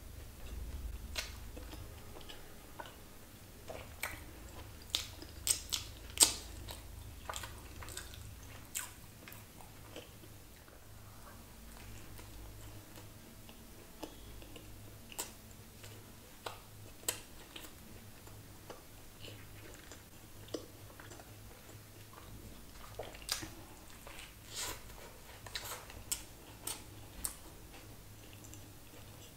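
Close-miked chewing and biting of a crispy chicken burger: scattered sharp clicks and crunches, busiest about four to nine seconds in and again from about twenty-three to twenty-seven seconds in.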